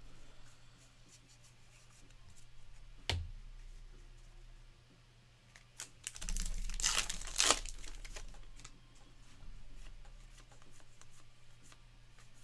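A Topps Heritage baseball card pack wrapper being ripped open: a loud crinkling tear about six seconds in, lasting about a second and a half. There is a single sharp click about three seconds in and light handling noise around it.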